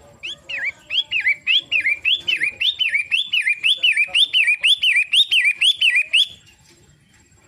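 Long-tailed shrike singing a fast run of repeated swooping whistled notes, about three a second. The run lasts about six seconds and then stops.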